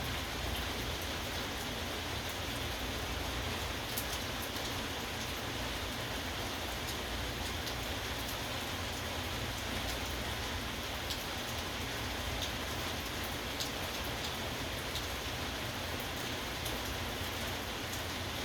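Steady rain falling, with a few sharper drop ticks standing out now and then.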